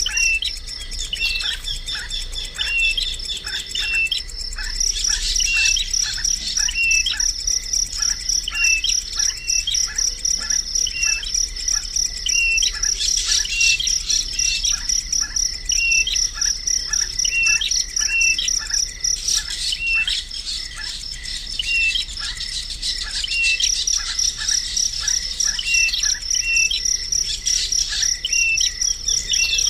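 A bird giving short falling chirps over and over, about one or two a second, over a steady high-pitched insect trill.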